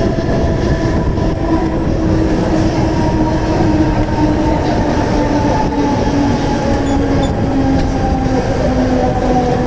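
Mumbai electric local train running on the rails: a steady rumble of wheels on track with a motor whine that falls slowly in pitch as the train slows.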